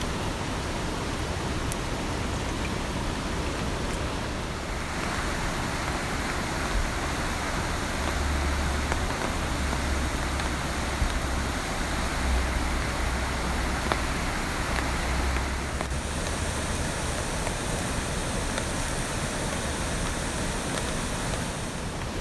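A steady wash of water noise from the rain-soaked riverside camp, shifting in character about five seconds in and again about sixteen seconds in, with a low rumble rising between about eight and fifteen seconds in.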